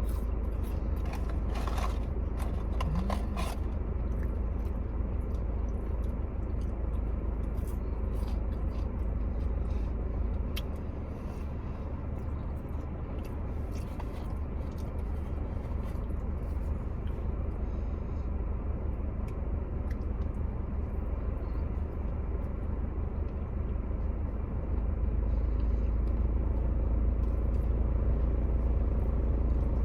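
A person eating, with scattered small clicks and scrapes of chewing and handling food over a steady low rumble.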